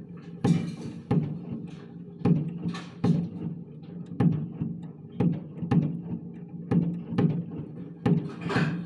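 Fireworks going off: a string of sharp bangs and pops, about one or two a second and unevenly spaced.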